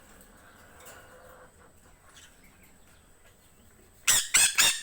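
Parrot screeching: a quick run of four loud, harsh squawks starting near the end.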